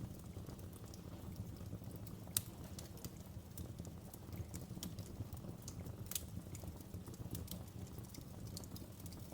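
Wood fire in a fireplace crackling, with frequent sharp pops and snaps over a steady low rumble of burning; one pop stands out about two and a half seconds in.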